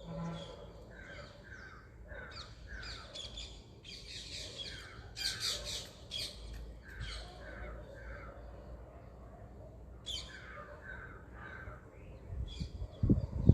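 Birds calling: short harsh squawks coming in quick runs of three or four, with a denser burst of calls about halfway through. A few heavy low thumps come near the end.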